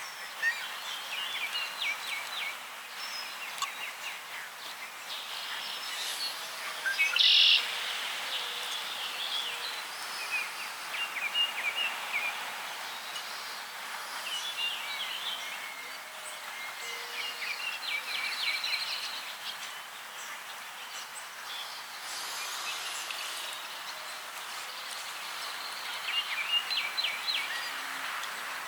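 Small birds chirping and singing in short repeated phrases, one brief call about seven seconds in the loudest, over a steady background hiss.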